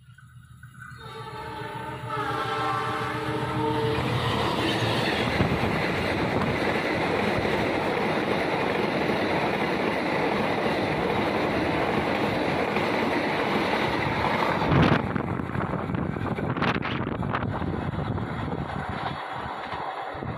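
Argo Lawu express train sounding its horn, a chord of several tones held for about three seconds as it approaches, then passing close at speed: loud steady rolling and wheel-on-rail noise of the coaches. A sharp knock rings out about fifteen seconds in, and the noise eases off as the train goes away.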